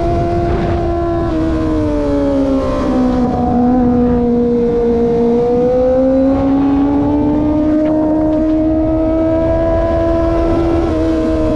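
Kawasaki ZX25R's 249 cc inline-four running at high revs while cruising. Its high-pitched note drops about two seconds in as the revs ease off, then climbs slowly and steadily as the bike pulls again, over a constant rush of wind noise.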